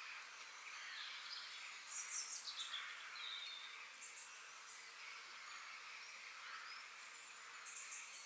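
Forest ambience: several birds calling over a steady high background chorus. The loudest call, about two seconds in, is a quick run of notes falling in pitch, with shorter high calls about four seconds in and near the end.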